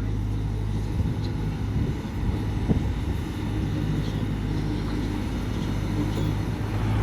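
Tractor engine running at a steady speed, with a couple of brief clunks.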